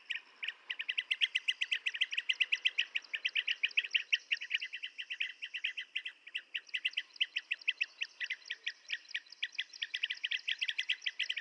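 Blue-tailed bee-eater calls: a fast, even run of short, high chirping notes, many to the second, going on without a break.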